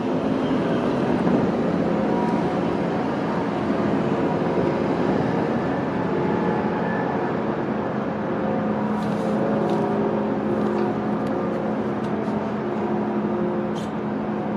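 A New York City subway train running on the line, with steady wheel-on-rail and motor noise and several faint clicks in the second half.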